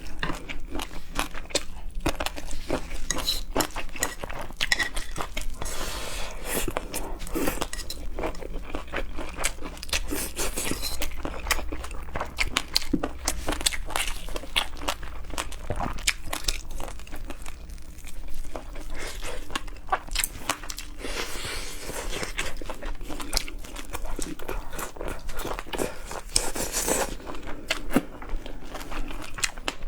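Close-miked mukbang eating: a person chewing and biting with irregular crunching and wet clicks, now and then a light clink of dishes.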